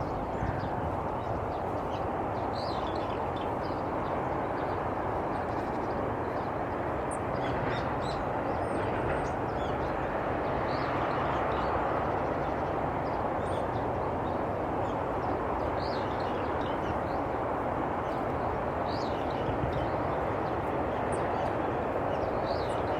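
Outdoor field ambience: a steady, even rumble like distant traffic, with short bird chirps scattered through it.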